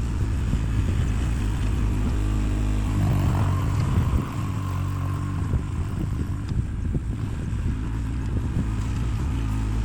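Engine of earth-moving machinery running steadily while working, pulling harder for a moment about three seconds in with a brief rising whine.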